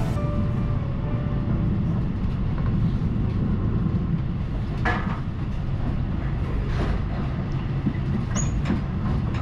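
Akita Shinkansen Komachi train running, heard from inside the passenger cabin. There is a steady low rumble of wheels on rails, with a couple of short clatters around the middle.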